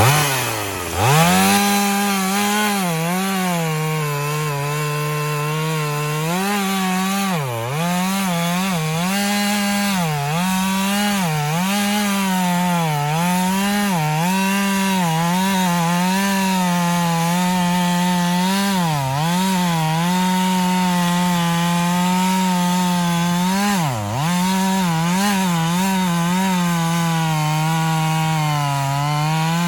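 Chainsaw revving up about a second in, then cutting through a hardwood log at high revs, its pitch dipping and recovering again and again as the chain loads up in the wood.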